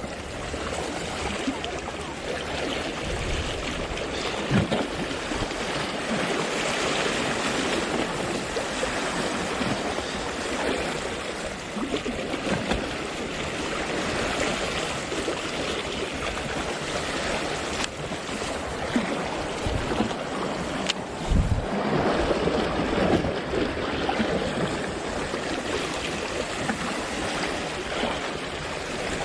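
Sea waves washing against a rocky shore, a steady rushing with occasional heavier surges, mixed with wind buffeting the microphone in low thumps.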